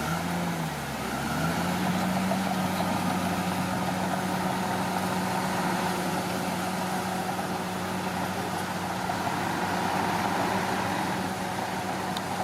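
Komatsu D41P bulldozer's diesel engine running. Its speed sags briefly in the first second, then picks back up and holds at a steady pitch.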